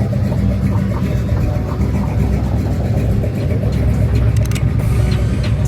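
A car engine running steadily, a continuous low rumble, with a few faint clicks in the second half.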